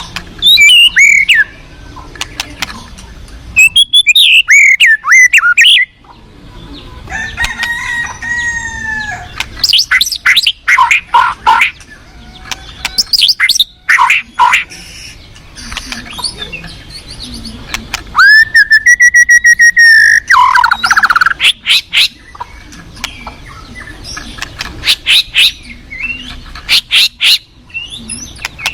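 White-rumped shama singing, a loud varied song of clear gliding whistles and rapid chattering phrases in bursts. Under it runs a steady rush of flowing river water.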